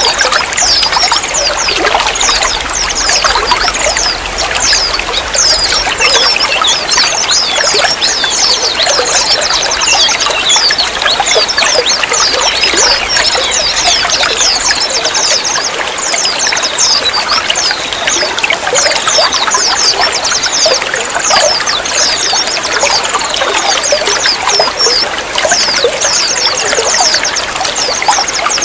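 Running water trickling and splashing steadily, a continuous rush with a dense patter of quick high-pitched drips over it.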